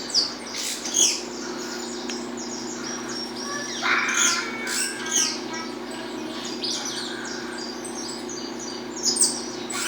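Peruvian saffron finch (canário-da-terra) singing in repeated bursts of sharp, quick downward-sweeping notes and short trills: the snapping "estalando" song valued in these sport birds. A steady low hum runs underneath.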